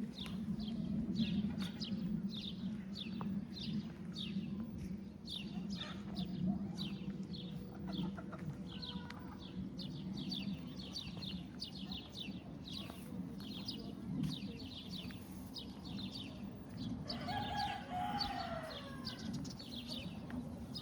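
A steady run of short, crisp ticks, about two a second, over a low steady hum. Near the end comes one drawn-out animal call, about two seconds long, rising and falling in pitch.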